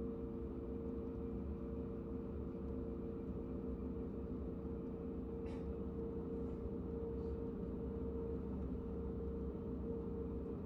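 KTX high-speed train running at speed, heard from inside the passenger cabin: a steady low rumble with a constant hum.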